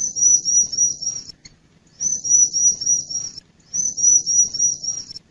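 Bar-winged prinia (ciblek) singing: rapid runs of about six high, buzzy, slightly falling notes, each run about a second and a half long, repeated three times with short pauses.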